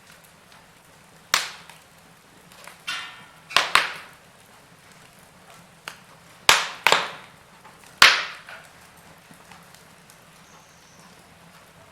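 Burning logs in a wood fire crackling, with about six sharp loud pops over a faint steady hiss; the loudest pop comes about eight seconds in, and a brief hiss comes just before a pair of pops about three and a half seconds in.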